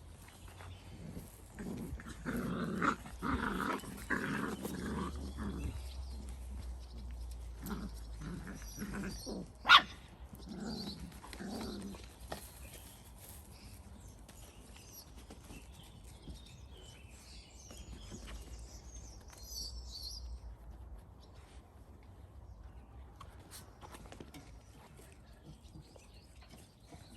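Dalmatian puppies vocalising as they play-fight, in clusters of short calls over the first dozen seconds. About ten seconds in there is one short, loud, high-pitched squeal. After that the sounds are lighter and scattered.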